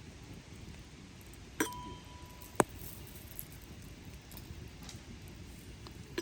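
Two sharp clinks about a second apart, with a thin ringing tone held between them, over a low steady background noise.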